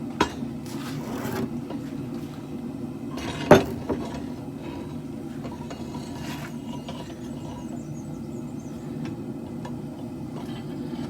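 Forge running with a steady low noise while steel heats, broken by a few sharp knocks, the loudest about three and a half seconds in.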